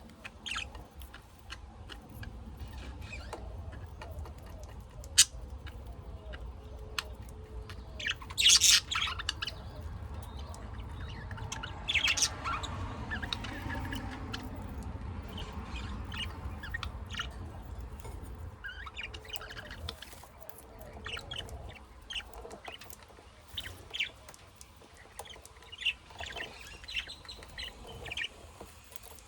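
Pet lovebirds and budgies chirping and squawking in their cage, with short scattered calls and louder bursts of squawks about eight and twelve seconds in. A low rumble runs underneath for the first two-thirds.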